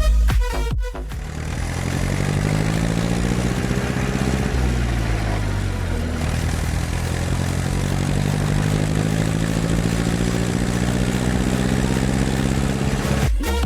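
Farm diesel engine running at harvest, its pitch climbing, dropping about five seconds in and then rising again as the revs change. Dance music plays briefly at the start and comes back near the end.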